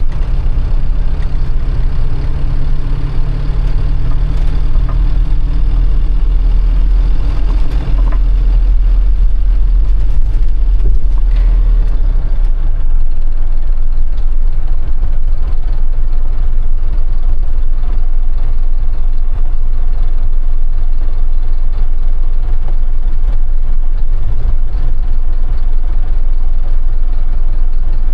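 Motorhome engine and road noise heard from inside the cab while driving: a steady low rumble that eases somewhat about halfway through.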